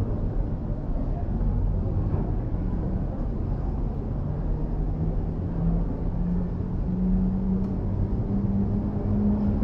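An engine running with a low rumble, its pitch climbing slowly through the second half.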